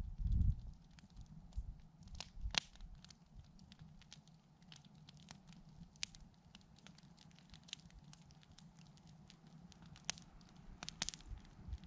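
Wood campfire crackling, with irregular small snaps and a few sharper pops. A low rumble sounds briefly at the start and returns near the end.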